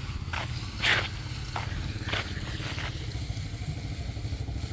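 A small engine running steadily with a low rumble. About six short, sharp sounds come in the first three seconds.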